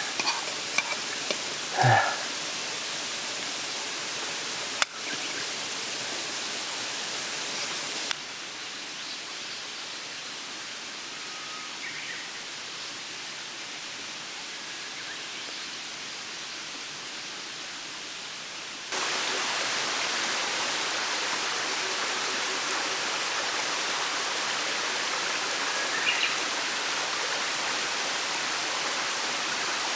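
Steady rushing of a mountain stream, its level stepping down about eight seconds in and back up near nineteen seconds. A few brief knocks sound in the first two seconds.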